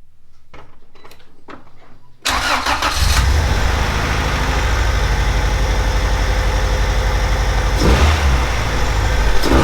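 Honda B20 2.0-litre four-cylinder engine in a Del Sol cranking briefly and catching about two seconds in, then idling steadily, with a short rise in engine speed near the end. It is the first start after work aimed at curing a misfire.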